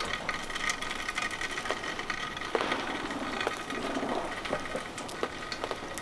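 Sleet and fine ice falling, a steady crackle of many small, irregular ticks.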